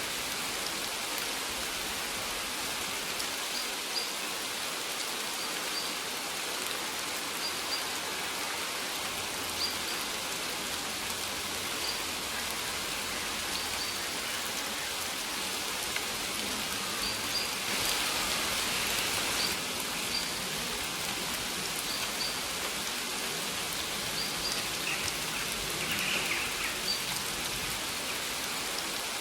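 Steady rain falling, with a short high chirp, likely a bird's, repeating every second or two. The rain swells briefly about eighteen seconds in.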